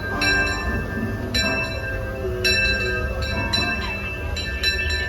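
Steam locomotive bell ringing at an even pace, about one strike a second, each ring lingering into the next, over a steady low rumble.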